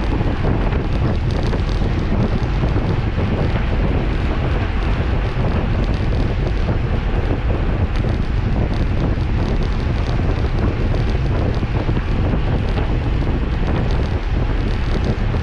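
Wind buffeting the camera's microphone while riding a bicycle, a loud steady rush heavy in the lows.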